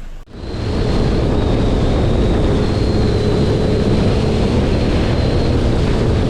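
Yamaha EX Deluxe jet ski under way: a steady engine drone and rushing water with wind on the microphone, starting suddenly about a quarter of a second in.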